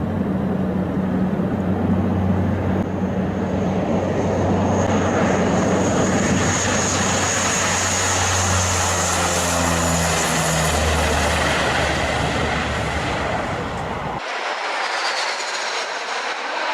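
Aircraft engines running loud and steady at high power, a low hum under a high whine that swells midway. Near the end the low hum drops out suddenly, leaving a thinner, higher engine sound.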